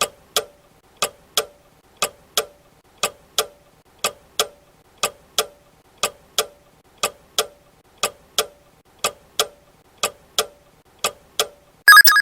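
Countdown-timer clock ticking, a tick-tock pair every second, twelve times over, then a loud short tone just before the end that marks the time running out.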